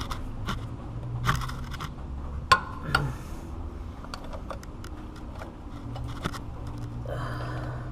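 Steel wrench clicking and scraping against the power steering pressure line fitting while being worked one-handed: a few sharp metal clicks, the loudest about two and a half seconds in, and a short scrape near the end, over a steady low hum.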